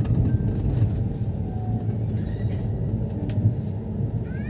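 Steady low rumble of a passenger train running slowly, heard from inside the carriage, with a sharp click about three seconds in and a brief high squeal starting near the end.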